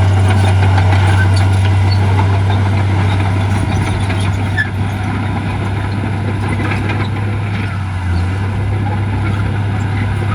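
Heavy diesel earthmoving machinery running steadily with a deep, constant engine hum, and a few light clanks here and there.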